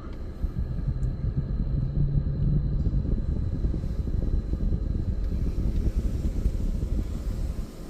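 PDQ Laserwash 360+ touchless car wash machinery running, heard from inside the car's cabin as a steady low rumble with a brief hum a couple of seconds in; a faint hiss joins about five seconds in.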